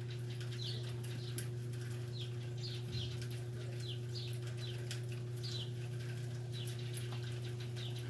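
Small birds chirping: short, high, falling chirps repeating every half second or so, over a steady low hum.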